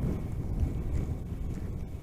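Wind buffeting a motorcycle-mounted microphone at road speed, a fluttering low rumble, with the motorcycle running underneath.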